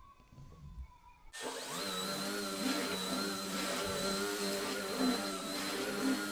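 Vacuum cleaner switched on about a second in, then running with a steady motor hum and a high whine.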